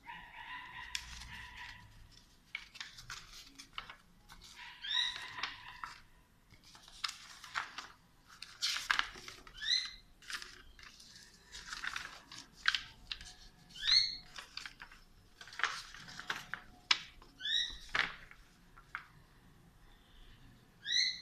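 A small bird chirping short rising calls every few seconds, over intermittent scratchy rustling and clicks.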